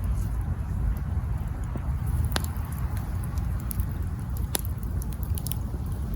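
Campfire burning with a steady low rumble and scattered wood crackles, two sharper pops standing out about two and a half and four and a half seconds in.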